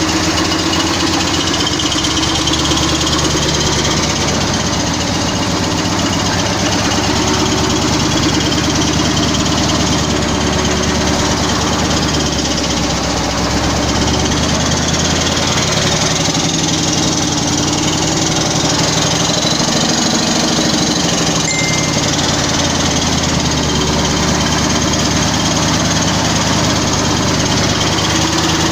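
Logging truck's diesel engine running steadily with a knocking clatter, its pitch drifting slowly up and down as it works.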